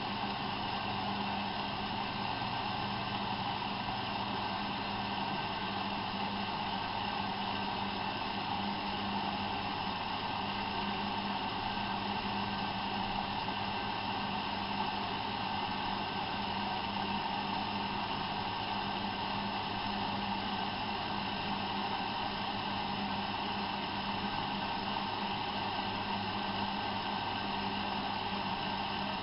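Bauknecht WAP 6460 front-loading washing machine running, a steady unchanging motor hum with no rhythm from the drum.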